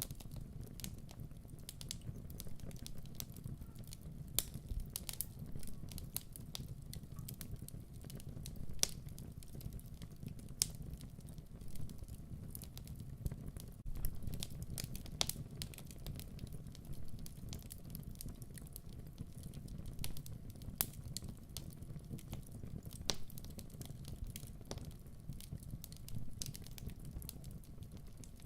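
Wood fire crackling in a fireplace: a steady low rumble of the flames with frequent irregular sharp pops and snaps, a few louder than the rest.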